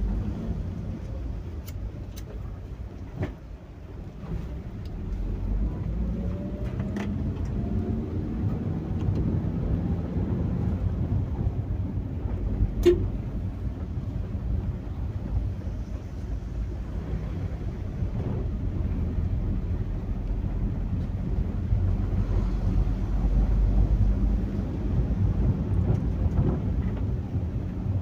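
Rainstorm with wind buffeting the microphone: a steady low rumble that swells near the end, with a few sharp ticks.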